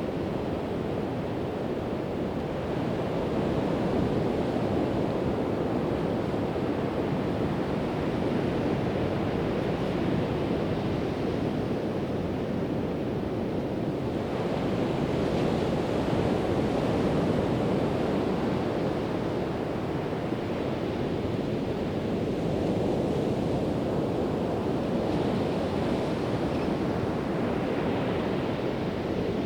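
Pacific Ocean surf breaking and washing up the beach, a steady rush with waves swelling in hiss twice, about halfway through and again near the end. Wind rumbles on the microphone.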